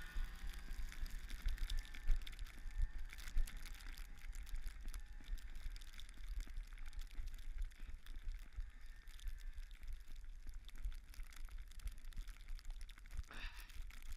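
A runner's footsteps crunching in snow, with wind rumbling on the small action-camera microphone. A short rising sound comes near the end.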